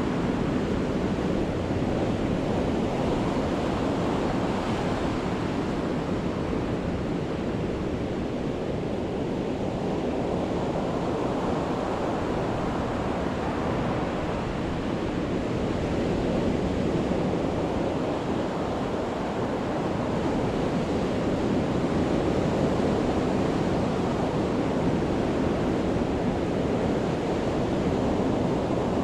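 Sea waves breaking on a beach: a continuous rushing wash of surf that swells and eases slowly over several seconds.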